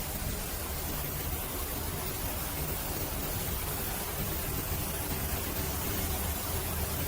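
Steady hiss of a pressure-washer spray over the low, even hum of a truck engine running.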